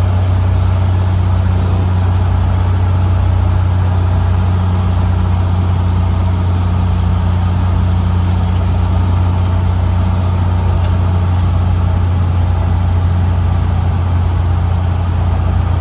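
Cessna 150's four-cylinder Continental O-200 engine and propeller droning steadily at constant power.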